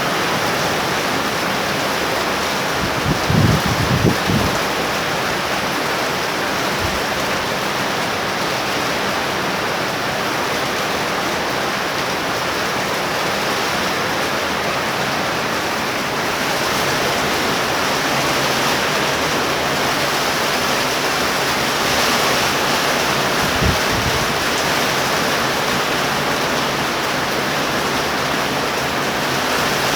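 Torrential rain pouring down in a thunder shower: a loud, steady hiss. Short low thumps break through about three to four seconds in and again near the end.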